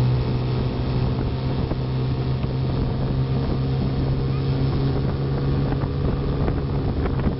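Motorboat engine running steadily underway, a constant even drone, with wind noise on the microphone.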